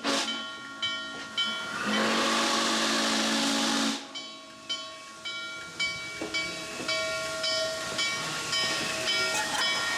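Norfolk & Western 611's steam whistle blowing for a road crossing, with heavy steam hiss: a brief toot, then a loud blast of about two seconds. After it, a bell rings steadily about twice a second.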